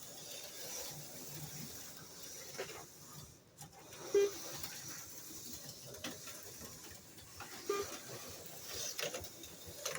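HO-scale slot cars (Auto World X-Traction Ultra G) running on a plastic track: a steady high whirring hiss of their small motors with scattered light clicks, dipping briefly about three and a half seconds in.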